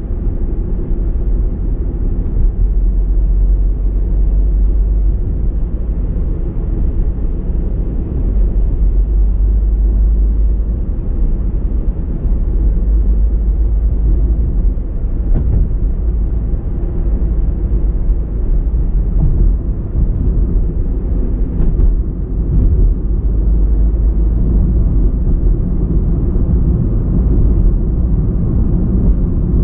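A car driving at a steady pace: a continuous low rumble of engine and road noise.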